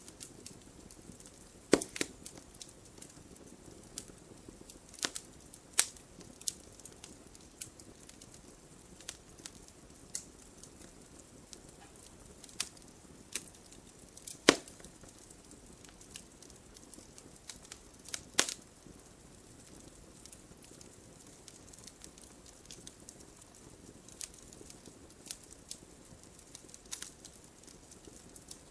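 Wood fire in a fireplace crackling, with a soft steady hiss and irregular sharp pops, a few louder snaps standing out.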